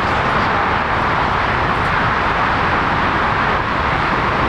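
Jet airliner engines running with a steady roar.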